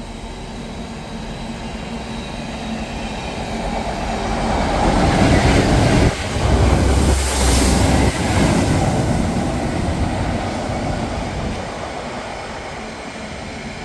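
Diesel train running along the platform road, its rumble growing to loudest about halfway through and then fading, with a thin high squeal of wheels or brakes over the loudest part.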